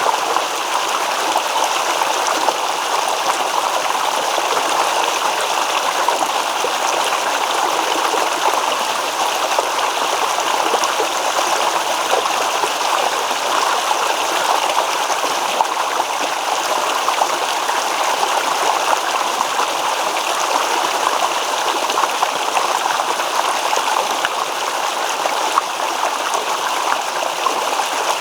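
Shallow stream babbling and trickling steadily over stones, an even rush of running water with no breaks.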